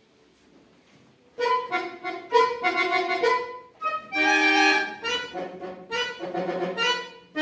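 Folk-instrument orchestra led by bayans and accordions. After about a second and a half of near quiet it begins a passage of short, detached chords, with one longer held chord near the middle.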